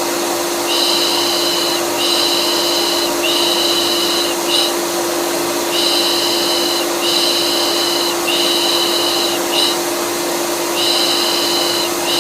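Steady vacuum cleaner drone, meant as white noise to calm a colicky baby. Over it a rhythmic 'pış pış' shushing repeats: three long hushes then a short one, the pattern coming round about every five seconds.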